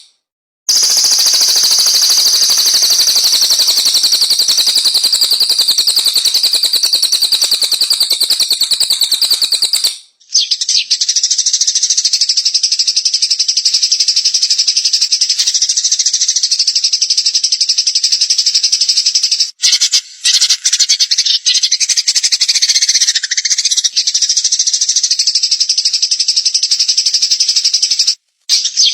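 Recorded songbird song: a very fast, continuous buzzing trill held for about nine seconds, then after a brief break a higher trill that goes on, broken by short gaps about twenty seconds in and near the end.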